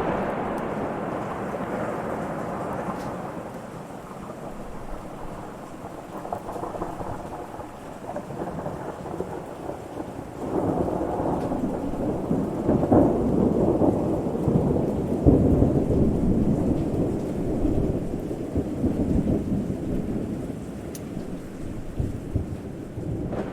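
Rolling thunder rumbling low and continuously in a rainstorm, with a louder roll building about ten seconds in that eases off near the end.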